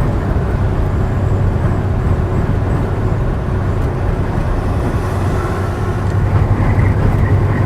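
Semi-truck cab while driving: the diesel engine's steady low drone under constant road and tyre noise.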